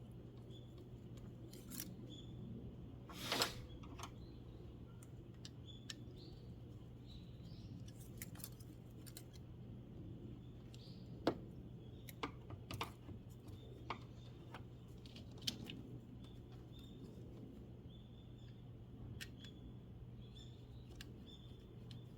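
Scattered sharp clicks and clinks of hand tools on metal, the loudest about three seconds in and again around eleven to fifteen seconds, over a steady low hum, with faint bird chirps.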